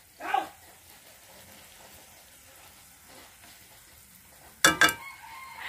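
Crickets in fish sauce simmering on a low flame in a wok, with a faint steady sizzle. Near the end a utensil strikes the wok twice with sharp clatters as the food is stirred.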